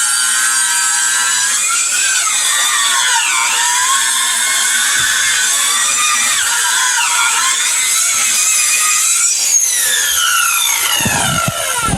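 Chainsaw cutting into a hardwood log, its motor whine dipping in pitch twice as the chain bogs under load. Near the end the motor winds down with a steadily falling pitch as the cut ends.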